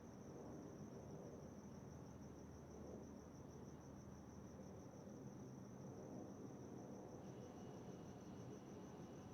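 Crickets chirping in a steady, fast trill over a faint low rumble.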